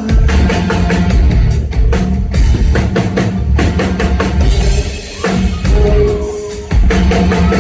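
Loud live rock band playing, with the drum kit and bass drum prominent; the music briefly drops back about five seconds in and again just before seven seconds.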